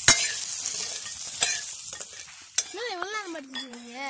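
Small onions, garlic and whole spices sizzling in hot oil in a pan while being stirred, with a few sharp knocks of the spoon against the pan. In the last second and a half a wavering, rising-and-falling pitched call takes over.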